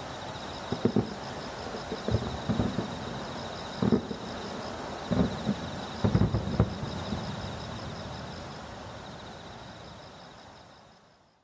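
Fireworks shells bursting in the sky: a run of irregular booms over the first seven seconds or so. The sound then fades out to silence near the end.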